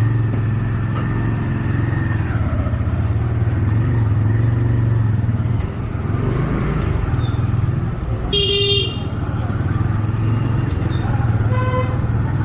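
Motorcycle engine running steadily with road and wind noise while riding. A vehicle horn sounds briefly about eight seconds in, and a fainter horn toots near the end.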